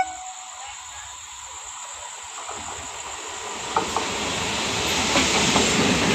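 Old EMU local train approaching on the near track: a rushing rail and wheel noise that grows steadily louder through the second half, with a clank about four seconds in. A short pitched beep sounds right at the very start.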